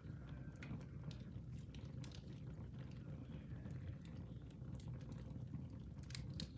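Fire burning in a fireplace, crackling with scattered small pops over a low steady rumble, a few sharper snaps coming close together near the end.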